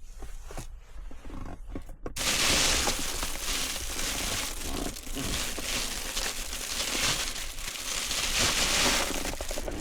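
Wood fire crackling and hissing in a fire pit. It comes in suddenly and loud about two seconds in, after a quieter stretch of scattered small cracks.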